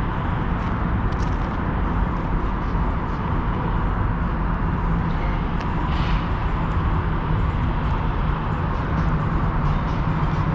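Steady vehicle noise: an even low rumble with a faint constant hum.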